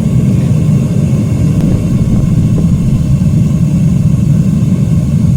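Propane forge burner running at full fire, a loud, steady low rush of noise, heating aluminum for casting.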